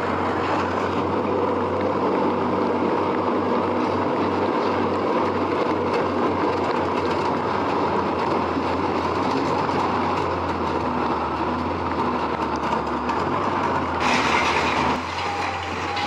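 Steady, loud mechanical running noise over a low steady hum, like heavy machinery or a large vehicle working. The sound brightens about fourteen seconds in, then eases a second later.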